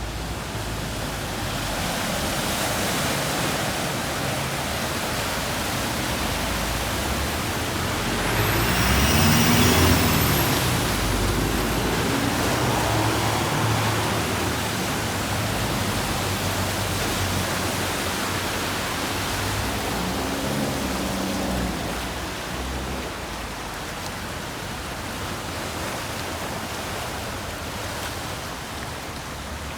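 A car driving past, rising to its loudest about ten seconds in and fading, with a fainter vehicle passing about twenty seconds in, over a steady rushing noise.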